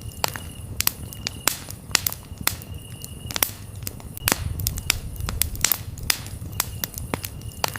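Campfire crackling, with sharp snaps and pops several times a second over a low rumble of the flames. Short, soft cricket chirps recur about once a second.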